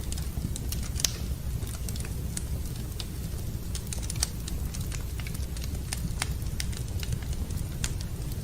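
Wood fire burning in a fireplace, crackling with irregular snaps over a steady low rumble, with a sharper pop about a second in and another about four seconds in.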